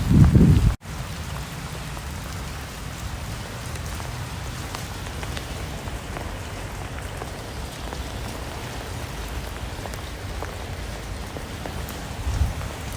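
Steady rain falling, an even hiss with scattered tapping drops. In the first second a loud low rumble cuts off abruptly before the rain takes over.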